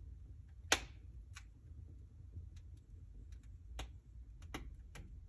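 Wood fire crackling in a fireplace: irregular sharp pops and snaps, the loudest about three-quarters of a second in, over a low steady rumble.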